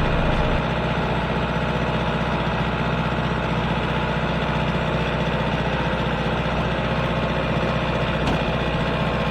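An engine running steadily at a low, even speed, with a brief tick about eight seconds in.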